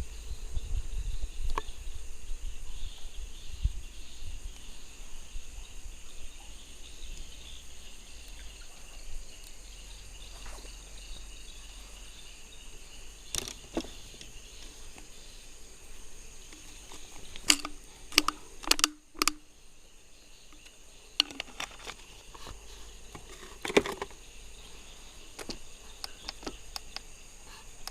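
Steady night chorus of crickets and other insects trilling, with a few sharp clicks and knocks from handling about halfway through and again near the end.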